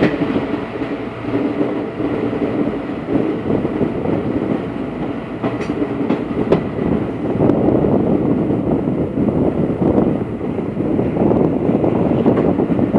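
Train running over an old steel railway bridge: a steady, loud rumble of wheels on rails with a few sharp clicks, getting louder a little over halfway through.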